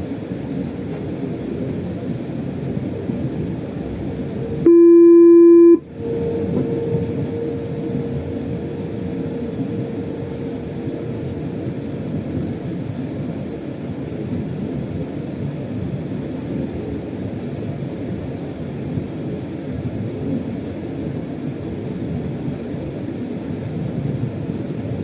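Freight train running, heard from inside the driver's cab as a steady rumble. About five seconds in, a loud single-pitched tone sounds for about a second.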